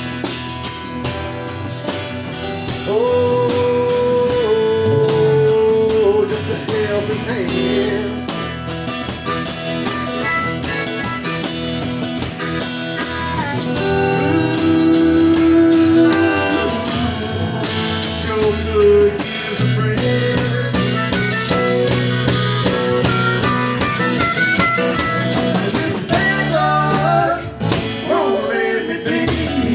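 Live Americana band playing an instrumental break, with harmonica and guitar carrying the lead over the rhythm section: held, bending notes.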